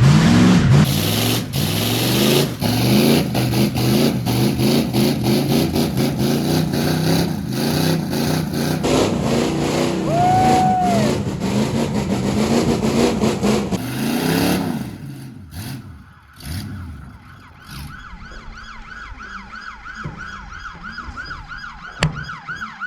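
Big-block Chevy V8 pickup engines revving hard and rising and falling in pitch for about fifteen seconds, then dropping away. For the last several seconds a police siren yelps, wavering up and down several times a second.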